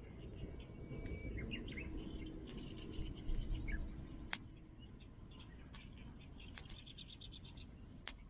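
Small birds chirping in short, quick calls over a low rumble that is louder in the first half, with a few sharp clicks scattered through.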